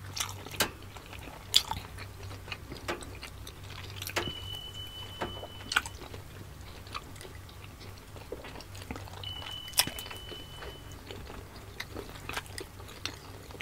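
Close-miked chewing and wet mouth sounds of two people eating steamed siomai dumplings, with scattered small clicks and smacks over a low steady hum. Two faint, steady high beeps, each about a second and a half long, come about four and nine seconds in.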